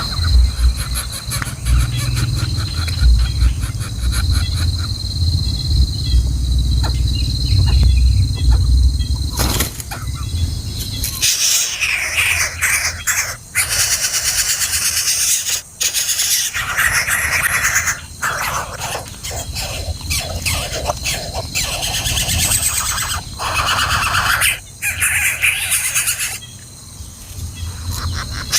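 Hungry nestlings begging for food with harsh, hissing squeals in repeated bursts, starting about a third of the way in. Before that, a low rumble.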